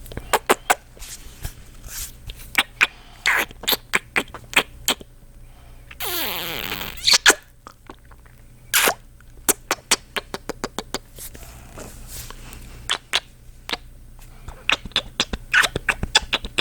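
Close-miked kissing sounds from a man's lips: quick wet smacks and pops, one after another at an uneven pace, with one longer, drawn-out wet mouth sound about six seconds in.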